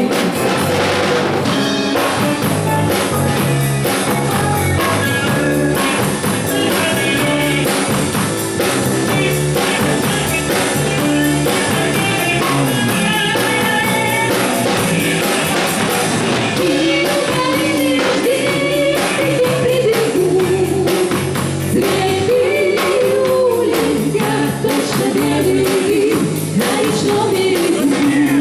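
Rock band playing a song with drum kit and guitar, a singer's voice carrying the melody, most clearly in the second half.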